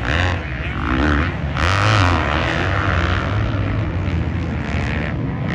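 Off-road racing engines on a motocross track running together, their pitch rising and falling as they rev.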